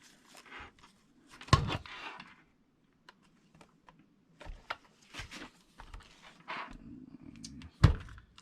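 Handling noise of a portable cassette recorder being turned over and set down: scattered plastic clicks, knocks and rustles, with two louder thunks about a second and a half in and near the end.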